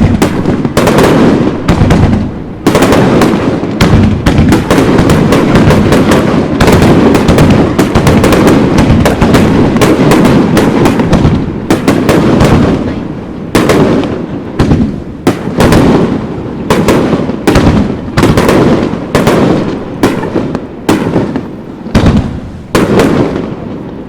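Aerial fireworks bursting in a rapid barrage, the bangs crowding on one another with echoing tails, then thinning to separate booms about once a second in the second half.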